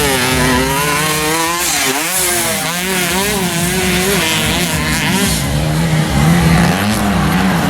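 Stock underbone motorcycles racing on a dirt track, their small engines revving up and down as the riders work the throttle, with one engine note holding fairly steady underneath.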